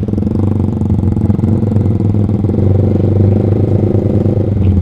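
Yamaha Vixion's single-cylinder engine running steadily through a Proliner TR1 short aftermarket exhaust, an even low note with no revving.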